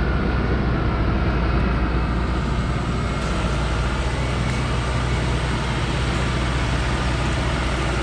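Truck engine running steadily with a deep low rumble, the sound of a timber-laden truck under way.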